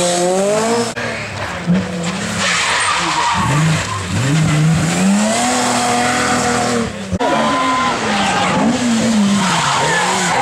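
Rally car engines driven hard, revving up and falling back again and again over a hiss of tyre and road noise. The sound cuts abruptly to another car about a second in and again about seven seconds in.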